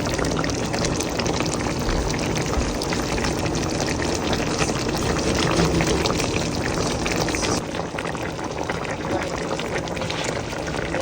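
Pot of fish and vegetables bubbling steadily on the stove, a steady hiss with fine crackle; the higher hiss thins a little near eight seconds in.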